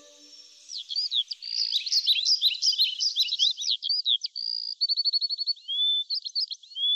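A songbird singing: a fast, varied run of high chirps and whistles, with a short, evenly spaced trill about five seconds in.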